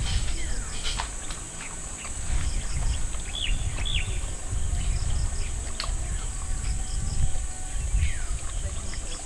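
Rural outdoor ambience: a steady high insect drone with short bird chirps now and then, over a low rumble.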